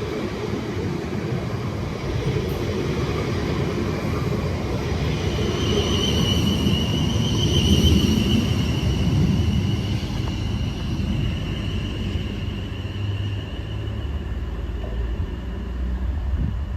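South Western Railway Siemens Desiro electric multiple unit running past on the line: a rumble that builds to its loudest about halfway, with a high, slightly wavering whine from its traction equipment, then eases off.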